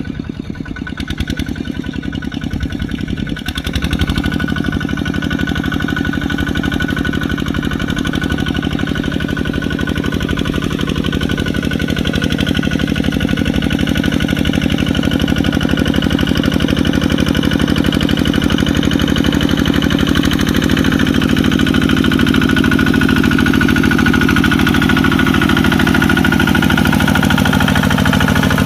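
Kubota RT140 single-cylinder diesel engine running steadily with a rapid, even beat under load, growing louder about four seconds in and changing in tone around two-thirds of the way through.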